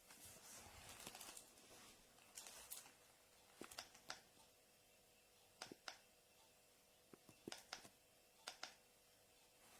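Near silence with faint room tone, a soft rustle in the first second or so, then scattered faint sharp clicks, several in quick pairs, every second or two.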